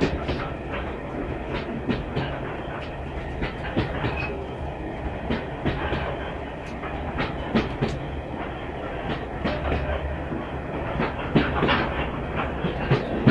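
Steam-hauled passenger carriage running along the line, heard from inside: a steady low rumble with irregular clicks and knocks of the wheels over the rail joints.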